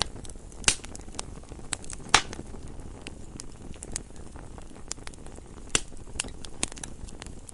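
Wood fire burning in a fireplace: irregular sharp crackles and pops over a low steady hiss, with a few louder pops a little under a second in, around two seconds in and near six seconds in.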